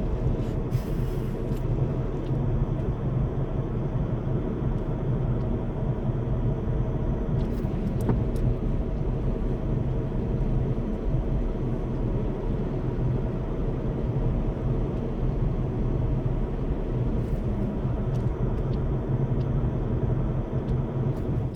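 Semi-truck's diesel engine running steadily, a constant low rumble with a few faint clicks over it.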